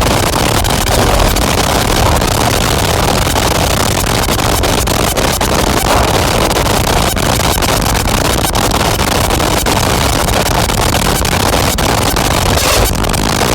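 Dense, steady wall of heavily distorted noise from a modular synthesizer patch (Make Noise Strega, Maths and Morphagene) run through Death By Audio Evil Filter and Absolute Destruction fuzz pedals. It fills everything from deep rumble to high hiss, broken by many brief dropouts.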